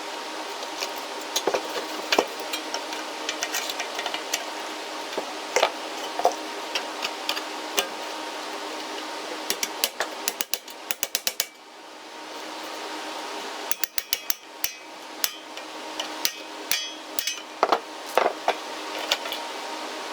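Metal clicks and knocks of hand work on a Briggs & Stratton flathead engine's recoil starter as it is taken apart, with two quick runs of rapid clicking about halfway through.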